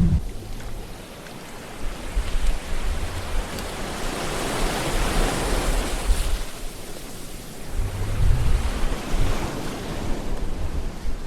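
Sea waves washing in, as an even noise. One swell builds and fades about halfway through, and another surges with a low rumble near the end.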